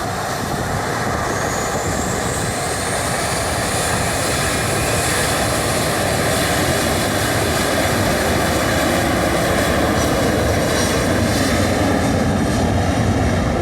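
Cargo airplane's engines running at takeoff power: a loud, steady engine noise that grows slightly louder, with a faint high whine rising in pitch over the first few seconds.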